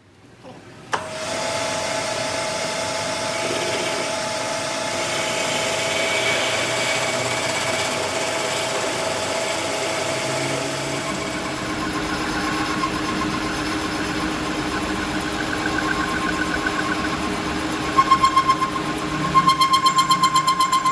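A workshop machine tool switches on about a second in and runs steadily with a mix of held tones, which change pitch about halfway through. Near the end a fast, even rattling pulse sets in.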